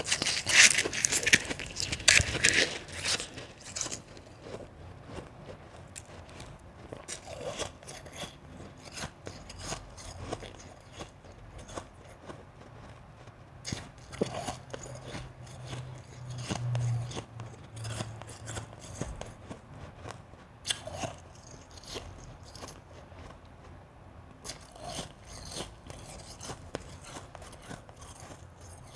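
Close-miked crunching of soft, fluffy blended and shaved ice in the mouth. It starts with loud crunchy bites for about three seconds, then settles into quieter crackling chewing and scraping for the rest.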